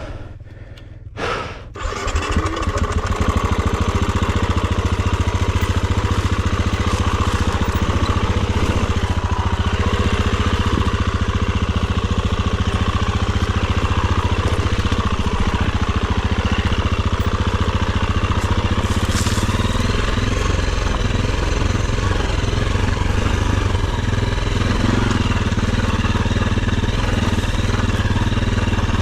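Enduro dirt bike engine: quieter for the first two seconds, then running loud and steady.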